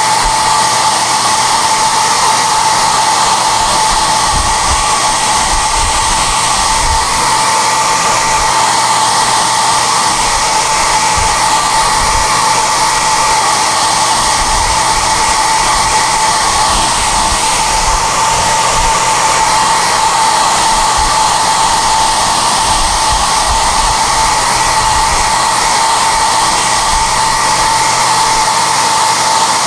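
SOUNATE high-airflow hair dryer (XM-H008/YX-HM008-G) running steadily. Its blowing air carries a steady high whine that does not change.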